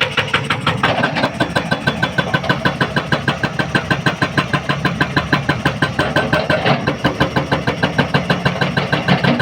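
Hydraulic rock breaker on a Hyundai 210 excavator hammering rock: a fast, even rattle of blows, several a second, over the excavator's running engine.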